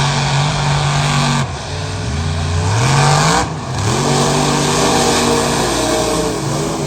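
Mega truck's big engine running hard at high revs. The revs drop and climb back twice, about a second and a half in and again at three and a half seconds, as the throttle is lifted or a gear changes, then hold high.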